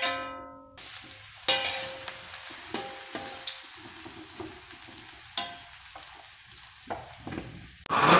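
Small cubes of tempe sizzling steadily in hot oil in a wok. A metal spatula stirs them, scraping and knocking against the pan every second or two. A ringing clink comes near the start, and just before the end the sizzle gives way to a louder running blender.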